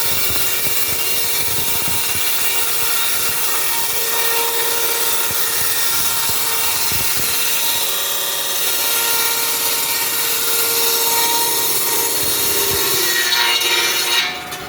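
Sawmill saw cutting through wood, a steady loud whining rasp that holds even until it drops off near the end.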